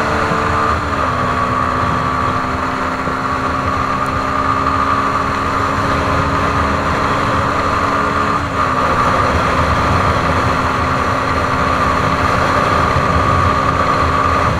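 CFMoto NK150 motorcycle's single-cylinder engine running steadily while riding along, with wind rushing over the microphone. The engine note steps down in pitch about a second in and again a little past halfway, then holds steady.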